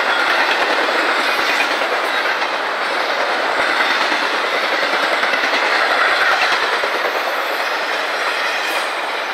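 Intermodal freight train's loaded cars rolling past: a steady rush of steel wheels on rail with a rapid clatter of wheel clicks. The clicking dies away and the sound eases slightly about seven seconds in.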